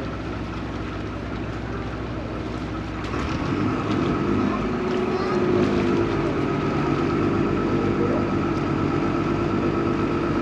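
Vaporetto water bus engine running, with water and hull noise. About three seconds in the engine note changes and grows louder as it is throttled up, then holds steady.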